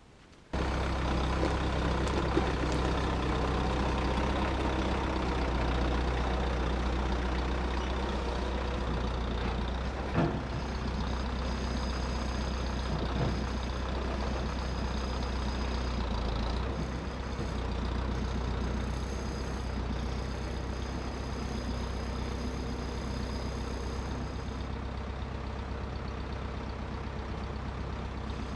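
A heavy engine running steadily, with a single knock about ten seconds in and a thin high whine coming and going in the second half.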